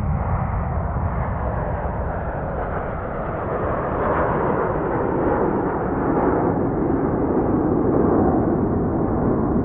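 Sound-designed low rumbling noise, like a distant barrage or a heavy engine drone, swelling about four seconds in and again near the end.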